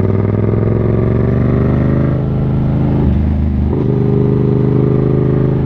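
Yamaha MT-07's parallel-twin engine running under the rider while cornering a sharp curve. Its pitch sags slightly over the first two seconds, breaks briefly about three seconds in, then settles to a steady note as the bike speeds up out of the bend.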